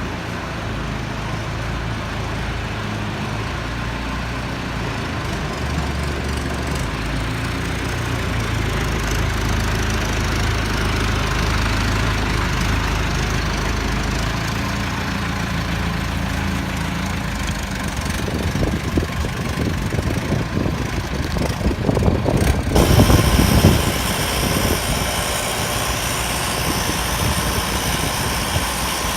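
Heden forklift truck's engine running steadily, then louder and more uneven for a few seconds about two-thirds of the way through.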